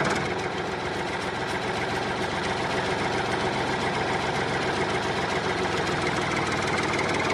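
An engine or motor running steadily at idle, with a fast even rattle.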